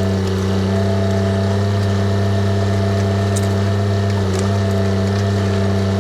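Diesel engine of a TYM tractor backhoe running at a steady speed, with a slight dip in pitch a little past four seconds and faint scattered clicks over it.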